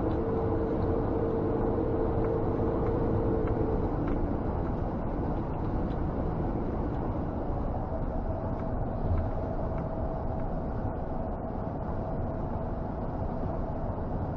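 Scania G460 truck's straight-six diesel and road noise heard inside the cab while driving, steady throughout. A low hum fades out about four seconds in, and a higher hum comes in a little past halfway.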